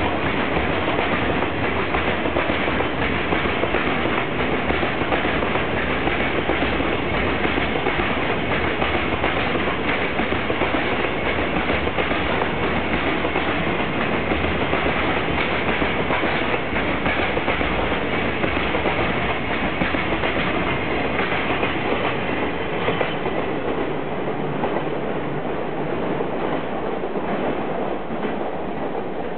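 Long freight train rolling past at speed, its wagon wheels clattering steadily over the rail joints. The sound eases slightly in the last few seconds.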